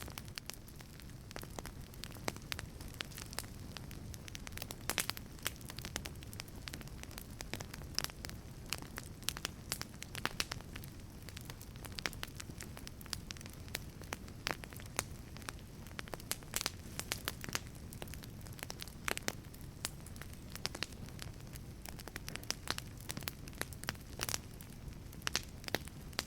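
Wood fire burning in a wood-fired pizza oven: irregular crackling with many sharp pops and snaps over a low, steady rumble of the flames.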